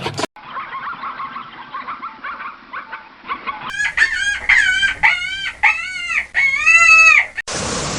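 Chickens clucking and chattering, then a rooster crowing loudly from about halfway, with a long final note. A brief burst of hiss near the end.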